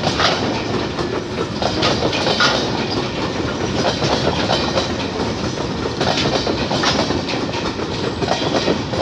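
Wagons of a passing parcel express train rolling by close, their wheels clattering over rail joints in an uneven run of clicks over steady running noise.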